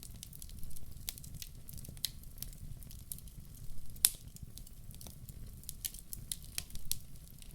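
Wood fire in a fireplace crackling: irregular sharp pops and snaps over a low steady rumble of the flames, with one louder pop about four seconds in.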